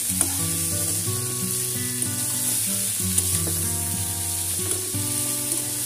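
Okra and potato pieces sizzling in hot oil in a kadai as they are lightly fried and stirred with a metal spatula, with a few faint taps of the spatula. Soft background music with held notes plays underneath.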